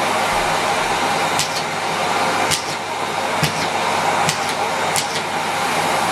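Miele Complete C3 canister vacuum cleaner running steadily with a whooshing suction noise and a steady motor hum, with a few sharp clicks now and then.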